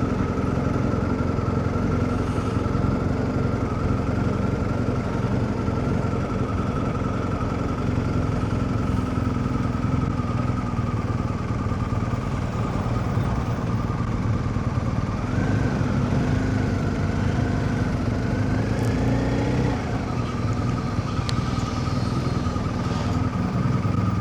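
BMW R1250GS Rallye motorcycle running under way, with a steady engine note. About two-thirds of the way through, the pitch climbs as the bike accelerates, then drops back suddenly, as at a gear change or throttle roll-off.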